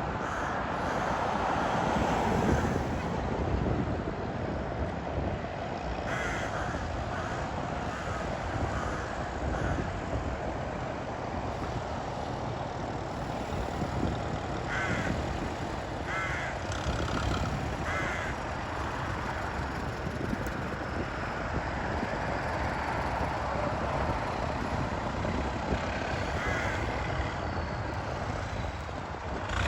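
Crows cawing in short bursts of several calls, over the steady running of passing vintage tractor engines.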